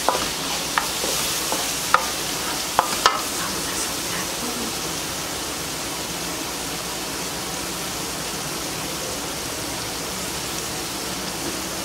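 Sofrito frying with a steady sizzle in a large metal pan as diced red bell pepper is tipped in and stirred with a wooden spoon. A few sharp clicks in the first three seconds, from the plate and spoon knocking the pan.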